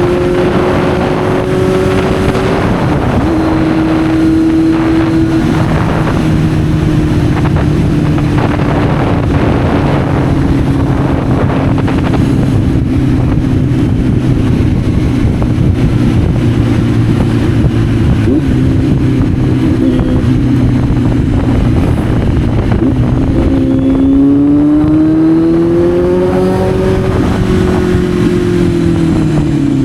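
Kawasaki Z900's inline-four engine under way, its note easing slowly down while cruising, then revving up about three-quarters of the way through and dropping away again near the end. A steady rush of wind noise lies under the engine throughout.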